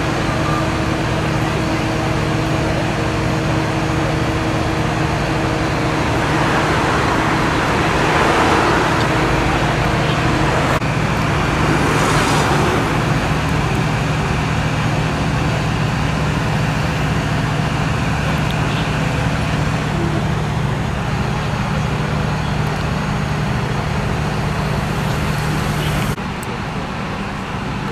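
A vehicle engine running steadily with a low hum, under street traffic noise; a louder passing rush swells up between about six and thirteen seconds in, and the level drops suddenly near the end.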